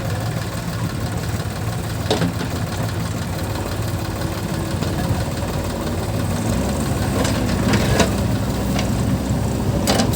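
Diesel engine of earth-moving machinery running steadily, its note shifting lower about two-thirds of the way through, with a few sharp knocks.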